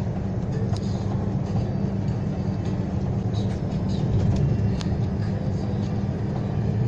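Semi-truck's engine and tyres droning steadily while driving on a smooth, even highway, with a few faint light clicks.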